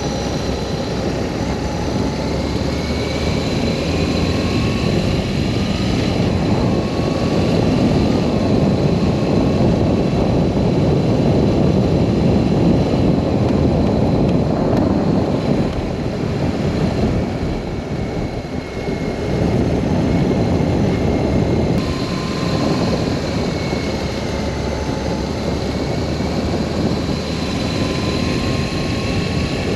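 BMW R1200S boxer-twin motorcycle engine running under way with heavy wind rush, its pitch climbing and dropping again several times as the rider works through the revs and gears.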